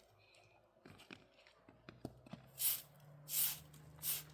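Three short scraping swishes about two-thirds of a second apart, after a few light clicks, over a low steady hum that comes in about two seconds in.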